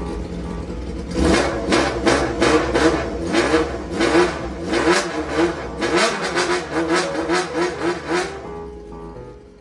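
Honda Jade 250's four-cylinder engine running, idling for about a second and then revved in a long run of quick throttle blips, roughly two a second, each rising and falling in pitch, before dropping back near the end.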